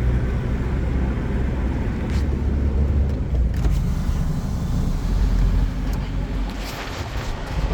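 Steady low rumble with a few faint knocks.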